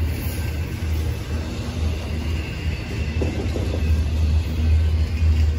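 Train rolling past with a steady low rumble, fluctuating a little in strength.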